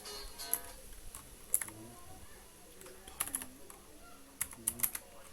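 Typing on a computer keyboard: irregular keystrokes, some in quick clusters, with faint voices in the background.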